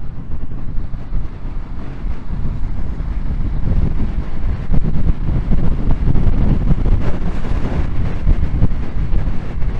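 Motorcycle riding along at speed: wind rushing over the microphone with the engine running underneath, getting louder about three and a half seconds in.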